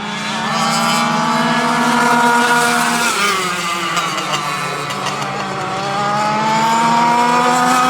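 Two-stroke go-kart engines running at high revs with a high-pitched whine. The pitch climbs, drops sharply about three seconds in, then climbs again.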